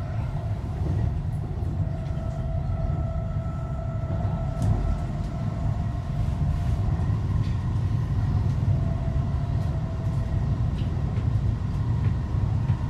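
Canada Line SkyTrain car running along its guideway, heard from inside the car: a steady low rumble with a faint, even electric whine over it.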